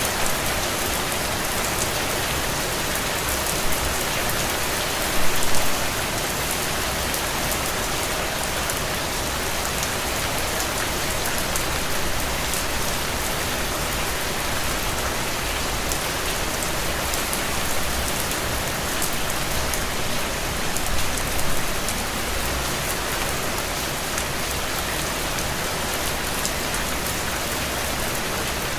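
Steady rain falling on a window, an even hiss with many small drops ticking on the glass. The rain briefly swells louder twice, about five seconds in and again past twenty seconds.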